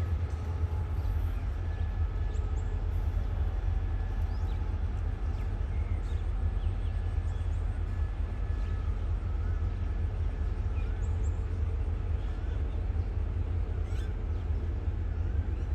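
Steady low rumble with birds chirping faintly over it.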